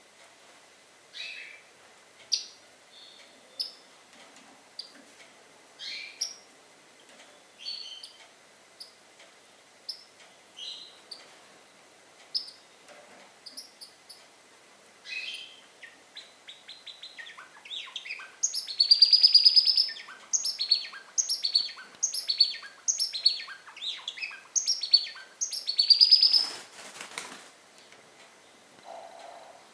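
Pet birds chirping: scattered single high chirps at first, then, about halfway in, a fast, busy run of chirps with two loud rapid trills.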